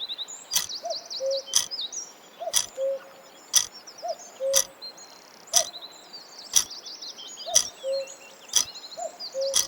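A clock ticking steadily once a second, like a countdown timer, over a continual background of small birds chirping.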